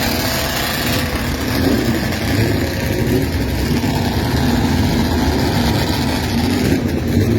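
Motorcycle engines running loudly and steadily, with their pitch rising and falling as they are revved.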